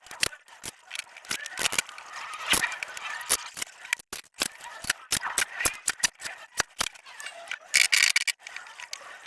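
Irregular clicks and scraping hiss of hands-on chair restoration work, with a louder stretch of hiss about eight seconds in.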